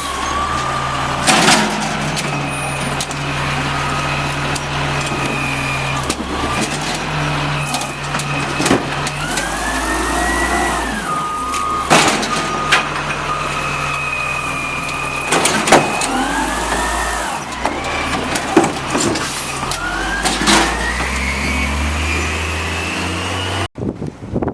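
Automated side-load garbage truck at work: its engine runs and revs up and down, with whining tones that rise and fall and several sharp bangs, typical of the hydraulic arm lifting and dumping a cart. The sound cuts off abruptly near the end.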